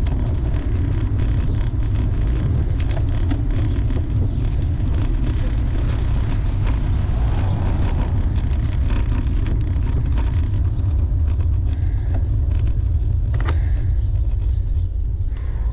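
Steady wind buffeting on the microphone and road noise from a bicycle ridden at speed, with scattered light clicks and rattles. It eases off near the end as the bike slows.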